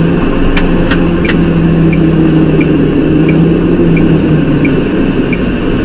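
Vehicle engine and road noise running steadily, with a low drone held for a few seconds and a light regular ticking about every 0.7 seconds.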